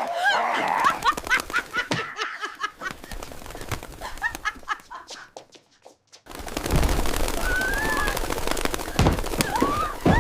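Birds chirping over a dense clatter of quick clicks and flapping. The sound breaks off briefly about six seconds in, then returns louder with a few rising and falling calls.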